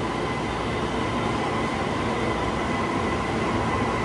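JR East E231 series commuter train pulling slowly out of the station, wheels rumbling on the rails, with a faint steady whine over the rumble.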